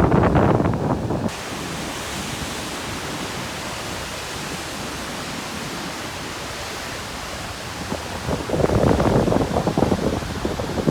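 Heavy ocean waves crashing on a rocky shore. A loud rumbling crash drops off suddenly about a second in to a steady hiss of surf and wind, and a second wave builds and crashes from about eight seconds in.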